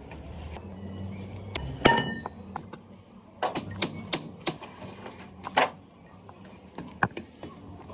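Irregular metal knocks and clinks of workshop tools and parts: one loud ringing metallic strike about two seconds in, then a scatter of sharper knocks.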